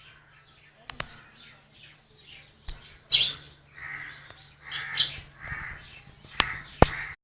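Birds calling in short bursts, several calls a second apart from about three seconds in, over a faint steady hum. A few sharp clicks cut through, the loudest near the end, and the sound stops abruptly.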